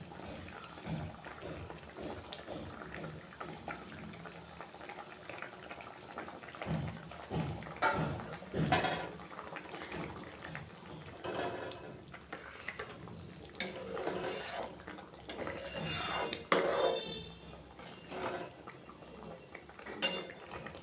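Boiled eggs being added to a simmering curry gravy in a kadhai and stirred in: intermittent clinks, knocks and scrapes of a spoon against the pan over wet liquid sounds.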